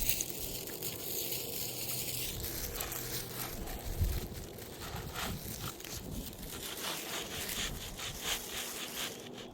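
A new Landmark asphalt shingle scraping and rustling against the old shingles as it is slid into place, with scattered small clicks and a dull knock about four seconds in.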